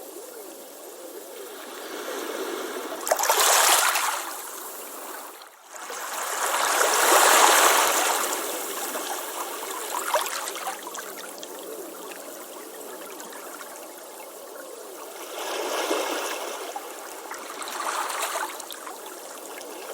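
Ocean waves washing up on a beach: a continuous wash of surf that swells as waves break about three seconds in, most strongly around seven seconds, and twice more near the end.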